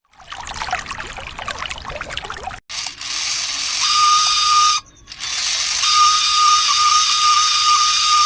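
Rattling and scraping for about two and a half seconds, then a small motor running with a steady high whine and hiss, which cuts out briefly about five seconds in and starts again.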